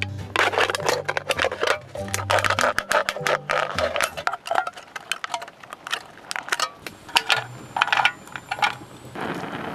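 Tableware and utensils clinking and clattering as they are handled, with a low musical background in the first few seconds. A steady hiss comes in near the end.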